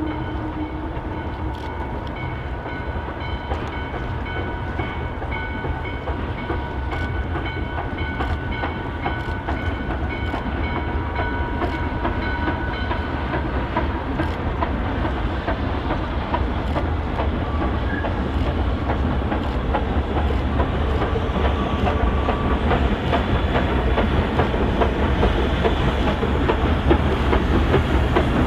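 Train running on the rails and drawing closer, growing slowly louder, with a steady low rumble and wheels clicking over rail joints. A few faint steady ringing tones fade out about halfway through.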